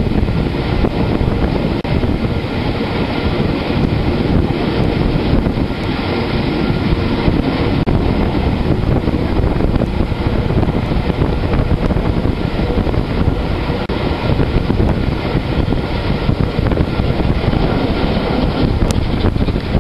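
Passenger train running downhill, heard from an open carriage window: a steady rumble of the coaches on the rails, with wind buffeting the microphone.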